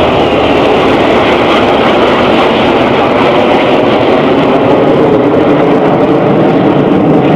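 Loud, steady jet engine noise from the Red Arrows' BAE Hawk T1 jets flying the display, with a faint tone that slowly falls in pitch over the last few seconds.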